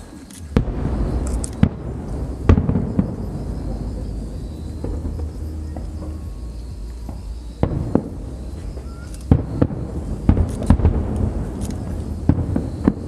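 Aerial fireworks going off: sharp bangs at uneven intervals over a continuous low rumble. The rumble starts about half a second in, and the bangs come closer together in the second half.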